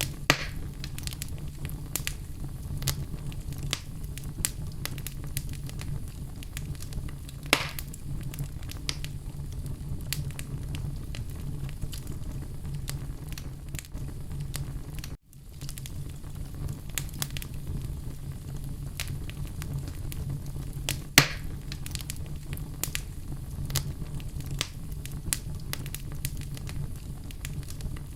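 Fire burning in a fireplace: a steady low rumble of flames with constant small crackles and three louder pops. The sound cuts out briefly about halfway through.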